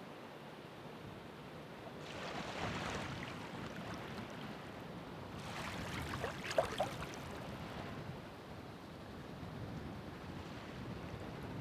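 Ocean waves surging and breaking on the shore, two swells about two and six seconds in, the second with a fizzing, crackling splash of water, over a steady wash of surf.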